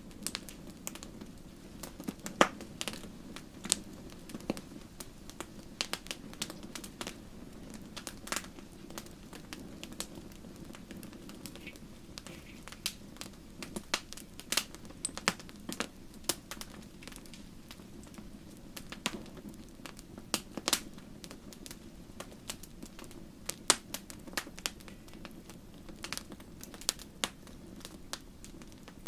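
Wood fire crackling and popping: irregular sharp snaps, a few each second, over a steady low rumble of burning.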